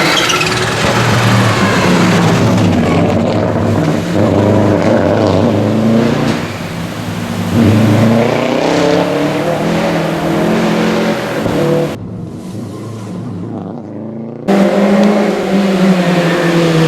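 Historic rally cars at full stage pace, their engines revving up and falling back again and again through the gears as they pass. The sound jumps abruptly from car to car, with a quieter, duller stretch about twelve seconds in.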